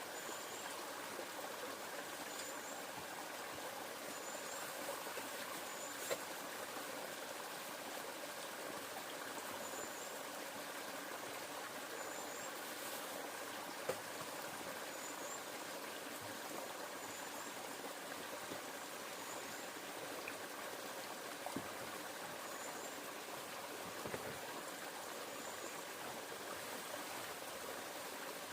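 River water running steadily, with faint high chirps repeating every second or two and a few sharp clicks.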